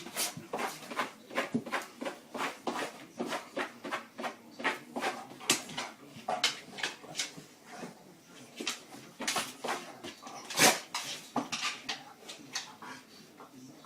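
A dog making a run of short, sharp sounds, a few a second, with one louder one near the end.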